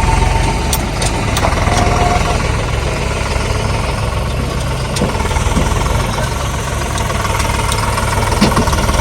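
Diesel tractor engine running steadily with a low, even throb.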